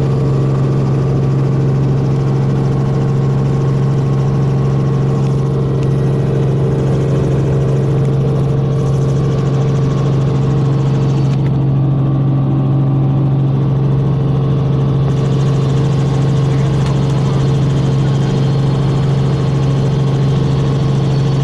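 Helicopter engine and rotor running steadily in flight, a loud even drone with a strong low hum, as heard by passengers in the cabin.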